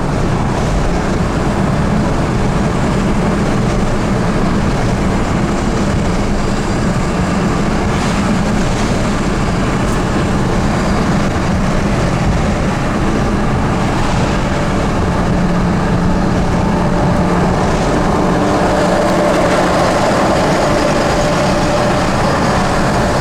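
Steady road-vehicle driving noise: heavy engine and tyre sound that runs on without a break.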